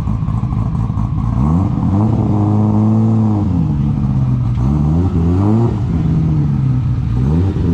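Car engine idling with a rough rumble, then revved up and held for about two seconds, let back down, and blipped again twice.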